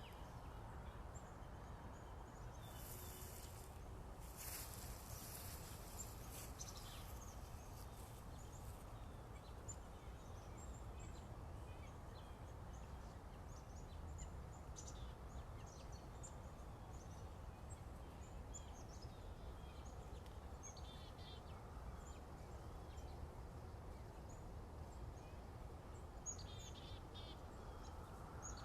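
Faint morning bird song: scattered short chirps and calls from several small birds over a steady low background rumble, with a brief hiss about three to five seconds in.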